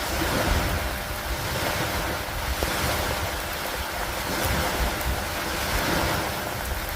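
Steady rainfall on a wooden dock: an even hiss with a low rumble underneath that swells and fades.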